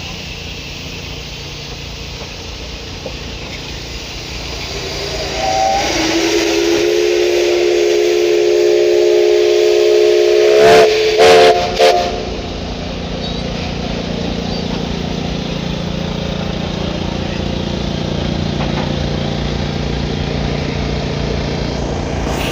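Locomotive whistle sounding one long multi-tone chord for about six seconds, ending in two or three short, loud blasts. A steady low running sound and hiss from the train continue underneath and after.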